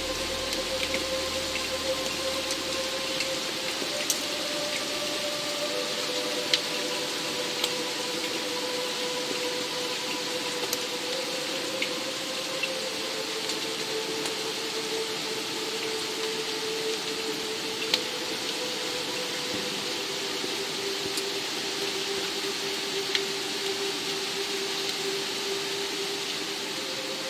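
Steady rain hissing, with occasional sharper drops ticking out of it, under a soft ambient music pad of long held notes that change every few seconds. A low bass note fades away in the first few seconds.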